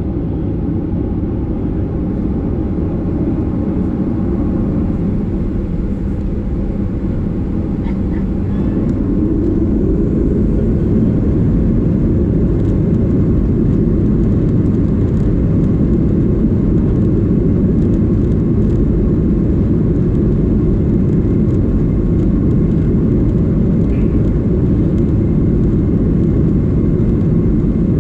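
Boeing 737-800 jet engines (CFM56-7B) running, a loud, steady low rumble that grows louder about eight to ten seconds in and then holds.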